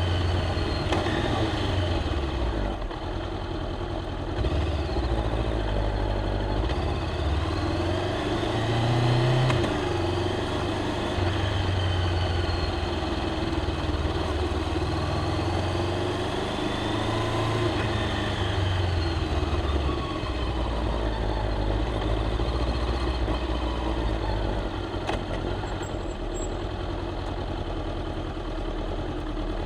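Honda CBR500R's parallel-twin engine and exhaust running while riding, the revs rising and falling several times as it accelerates, shifts and slows.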